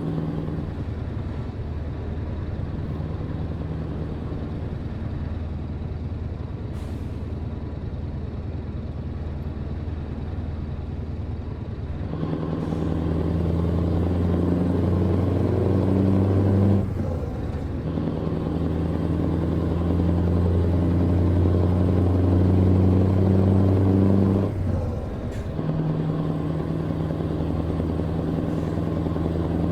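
Truck's diesel engine running on the road, pulling harder partway through with the engine note rising, then dropping off sharply twice as the revs fall.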